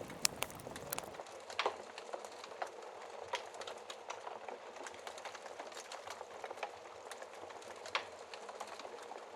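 Burning logs crackling, with many small snaps and a few louder pops, over a steady hiss of rain. A low rumble under the sound drops away about a second in.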